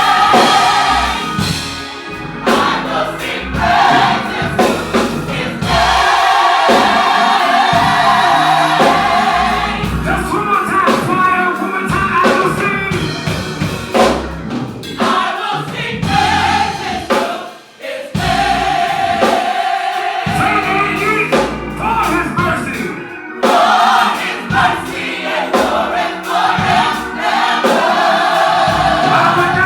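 Gospel choir singing with a band: held choral notes over drums and bass, with a brief drop in the music about two-thirds of the way through.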